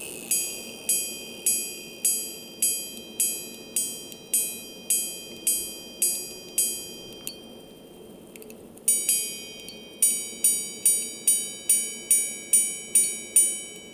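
Jaquet Droz Tropical Bird Repeater minute repeater chiming the time on its gongs: twelve evenly spaced, ringing strikes for the hours, a pause, a two-note quarter strike about nine seconds in, then a quicker run of strikes for the minutes.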